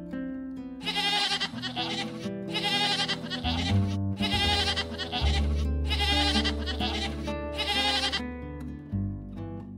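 Young goats bleating over and over, a string of short wavering bleats starting about a second in, over background music.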